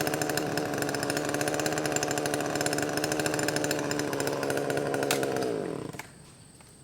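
Chainsaw engine running steadily at high speed, then slowing with a falling pitch and cutting out about six seconds in.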